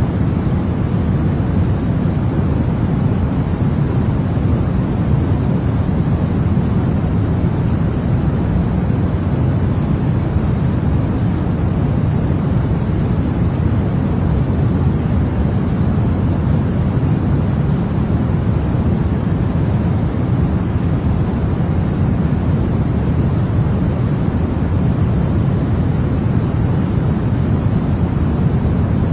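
Continuous baby-sleep white noise: a steady, unchanging hiss weighted toward the low end, heard as a deep rumbling wash with little treble.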